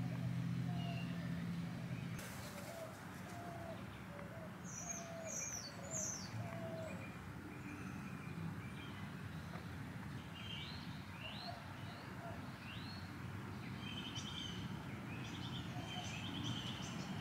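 Several songbirds chirping and calling, faint, with short high chirps scattered throughout and a low call repeated about once a second over the first few seconds.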